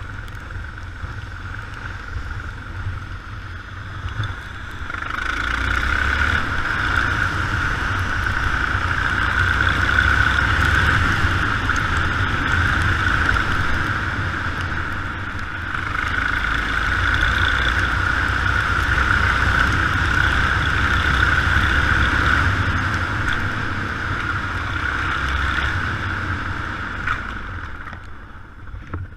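Yamaha XT 600 single-cylinder four-stroke motorcycle engine running under way, heard from an on-bike action camera with wind rush over it. It grows louder about five seconds in, eases briefly around the middle, rises again, and drops off near the end.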